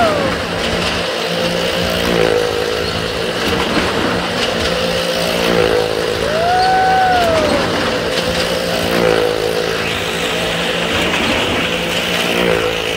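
A car and motorcycles riding the wooden wall of a well-of-death drum, their engines running hard with a drone that swells every three to four seconds as they circle past. A short tone rises and falls about six seconds in.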